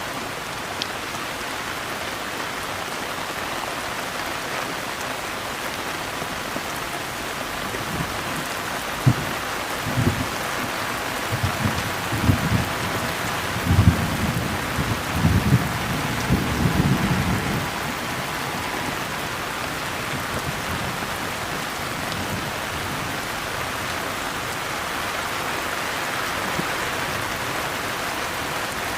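Steady rain falling, with a crackling rumble of thunder rolling through from about nine seconds in to about eighteen seconds in.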